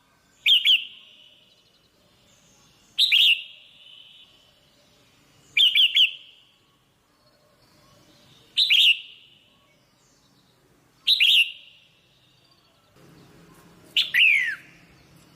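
Female red-whiskered bulbul giving short, sharp calls, six in all, about one every two and a half seconds; the last call falls in pitch. These are the female's calls used to excite male bulbuls.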